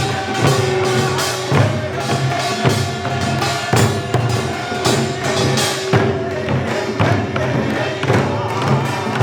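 Korean pungmul percussion ensemble playing, with heavy beats about once a second under a held melodic line.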